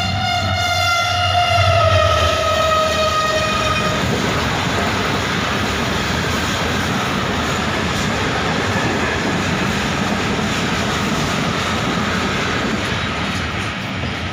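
Locomotive horn held for about four seconds, sagging slightly in pitch before it stops. It sounds over the steady rumble and rail noise of the passenger coach running at speed.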